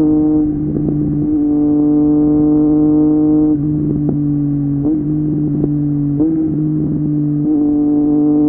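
Triumph Street Triple 765 RS inline three-cylinder engine through an Akrapovic exhaust, running at a steady cruise, its note holding nearly level with small shifts in pitch every second or so.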